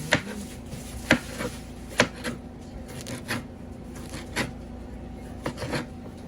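Sharp, irregular knocks and clatter of kitchen work, about one a second, loudest near the start and around one and two seconds in.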